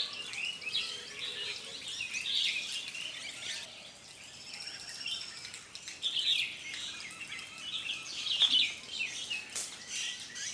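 A flock of small birds, bulbuls among them, chirping and calling over one another at a bathing spot, with a couple of brief sharp sounds near the end.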